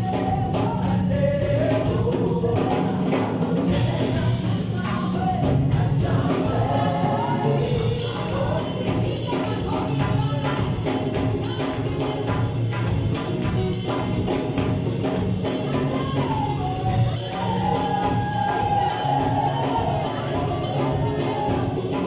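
Live gospel worship music: voices singing together over a band, with a tambourine and percussion keeping a steady beat.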